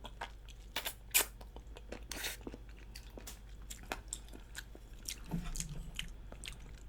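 Close-miked chewing of chewy food, with wet smacking and mouth clicks coming irregularly and one louder smack about a second in; the chewing is done with the mouth a little open, which makes it smack more.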